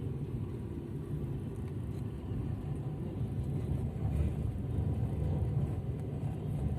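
Passenger train running along the line at speed: a steady low rumble with no change in pitch or loudness.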